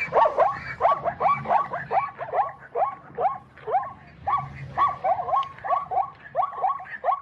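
Recorded zebra calls played back by the Animal 4D app: a rapid series of short yelping, bark-like calls, about three a second.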